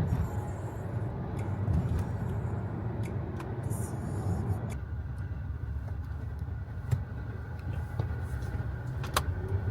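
Steady low rumble of a moving road vehicle, with a short click near the end.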